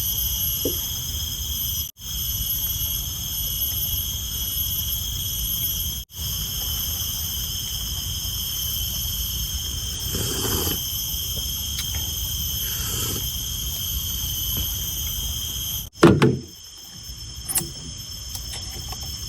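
Forest ambience: a steady high-pitched insect drone over a low rumble, broken briefly twice. About sixteen seconds in comes a sharp loud knock, after which the rumble falls away.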